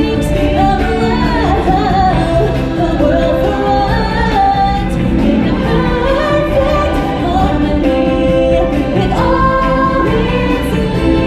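Loud stage-show music with singers and a choir, sung lines held and sliding over a steady heavy bass.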